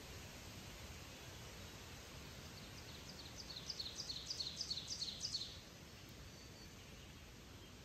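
Faint outdoor ambience. About three seconds in, a small bird sings a quick series of repeated high chirps, about four a second, lasting a couple of seconds.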